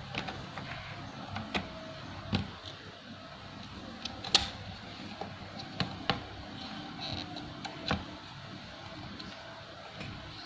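Light clicks and taps, about seven scattered through the stretch, from hands handling the opened laptop's parts, over a steady background hum, with a few faint high chirps.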